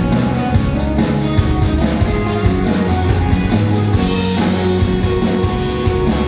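A live rock band playing with electric guitar and drum kit, with a cymbal crash about four seconds in.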